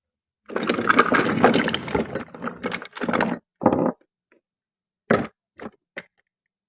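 A toy fruit being cut: a crunching crackle for about three seconds, then four short separate knocks.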